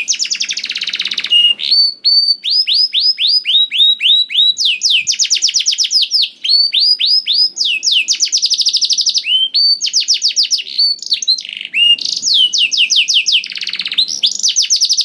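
Canary singing continuously and loudly: runs of fast, falling trilled notes, each run a new phrase, following one another with barely a pause.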